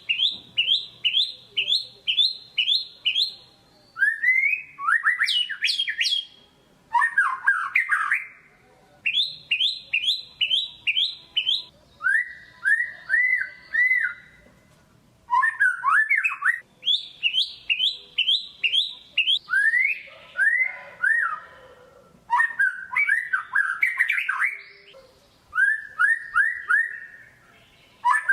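White-rumped shama singing: phrases of a second or two made of quickly repeated whistled notes, each phrase a different note type, with short pauses between phrases.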